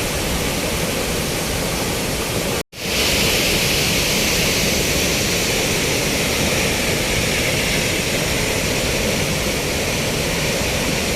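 Waterfall roaring: a loud, steady rush of falling water. About two and a half seconds in it cuts out for an instant and comes back with more hiss.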